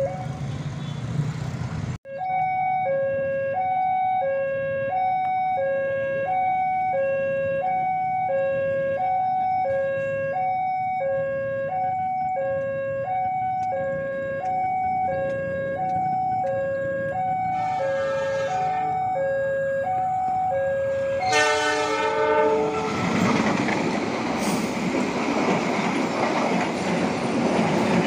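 Level-crossing warning alarm sounding a two-tone high-low signal, alternating about once a second, as an Argo Parahyangan passenger train approaches. A little past two-thirds of the way in, the locomotive sounds its horn once for about a second and a half. The train's cars then pass close by, their wheels rumbling on the rails.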